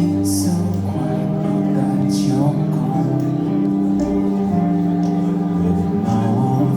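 Live rock band playing, with sustained guitar and bass chords, cymbal swells and a sung voice.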